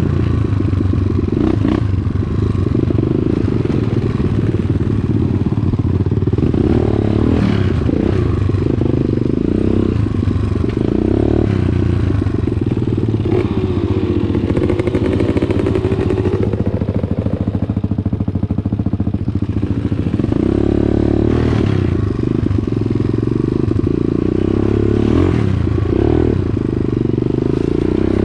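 Dirt bike engine running while riding, its pitch rising and falling with the throttle, with occasional knocks and clatter.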